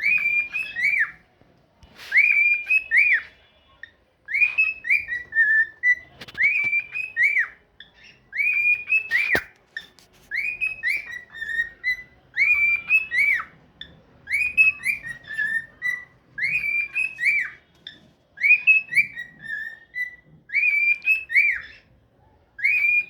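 Cockatiel whistling the same short tune over and over: a phrase of a few clear, rising-and-falling notes repeated about every two seconds.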